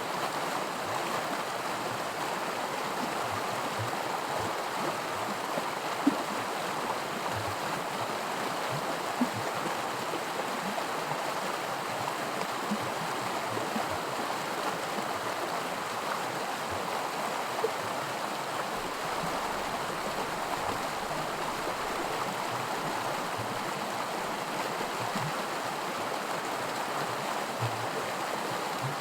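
Small creek riffle, shallow water rushing and burbling over rocks in a steady stream, with a few brief sharper splashes.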